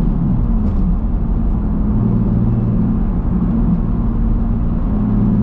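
Nissan 350Z's 3.5-litre V6 engine heard from inside the cabin while driving, over low road rumble. The engine note falls in the first second, then holds fairly steady with small rises and dips.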